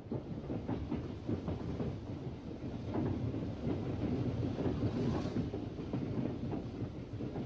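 A train running, with a steady low rumble and irregular clanks and knocks.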